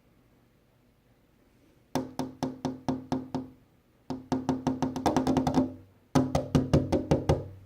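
Rapid wood-block-like percussive notes with a steady pitch, in three runs of quick strikes, starting about two seconds in.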